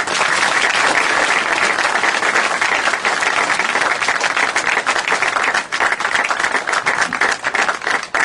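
Crowd applauding, starting suddenly and thinning in the last couple of seconds into more scattered claps.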